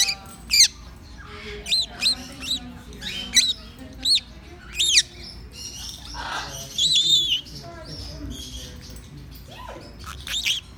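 Birds chirping: short, high chirps come every half second to a second, and a longer, rougher call sounds about six to seven seconds in.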